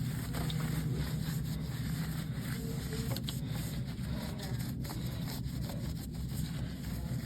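A towel rubbing and scraping over a pedestal fan's rear grille as it is wiped clean, with a few light clicks, over a steady low hum.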